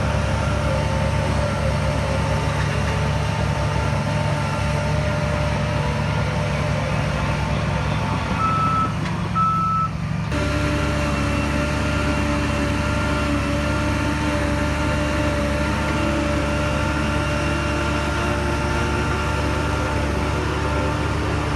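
Heavy diesel engine of earth-moving machinery running steadily under load, with a reversing alarm beeping. About ten seconds in the engine note changes abruptly.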